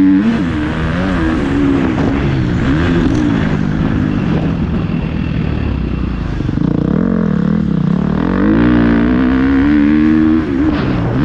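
Motocross bike engine revving up and down as the rider works the throttle, with a lower-pitched stretch in the middle and a brief throttle cut about ten seconds in.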